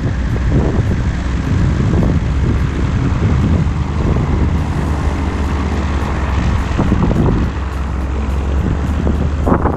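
An engine runs steadily with a low rumble, with wind noise on the microphone.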